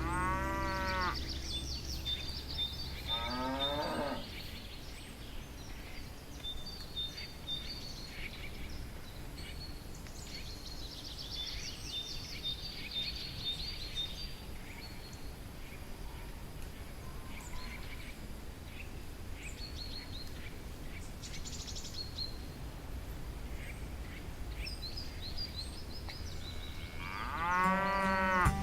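Cattle mooing: a call at the start, a falling moo about three to four seconds in, and a louder moo near the end. Birds chirp in the gaps between them over a low outdoor rumble.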